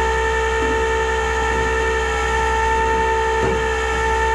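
Tow truck's hydraulic pump whining loudly at a steady pitch while the tow equipment is being operated.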